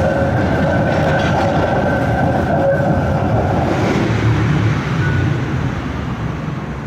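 A tram running on its rails: a steady rumble with a thin high whine held over it, easing off slightly in the second half.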